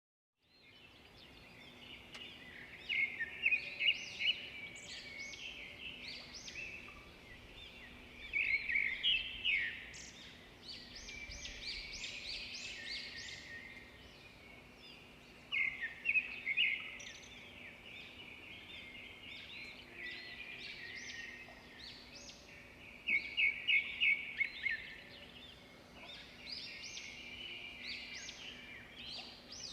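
Songbirds singing: clusters of quick, high chirps and trills come in loud phrases every several seconds, with softer twittering between them. A faint steady low hum runs underneath. The sound begins out of silence just after the start.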